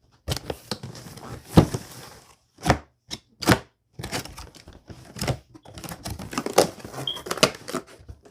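Cardboard packaging being opened and handled: an irregular run of knocks and thumps, mixed with scraping and rustling of cardboard.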